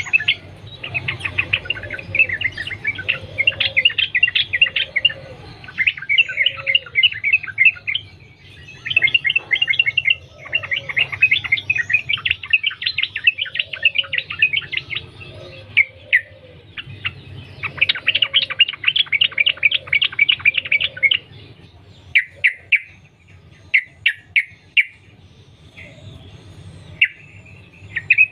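Yellow-vented bulbul (trucukan) singing in long, rapid chattering runs of notes with short breaks between them. The runs turn into shorter, choppier bursts near the end.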